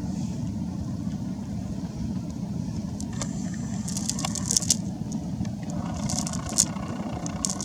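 A steady low rumble, with bursts of clicking and rattling from about three seconds in and again near the end.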